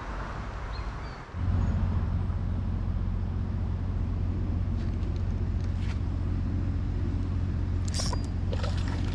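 A steady low rumble sets in about a second in and holds. A few light clicks come on top of it.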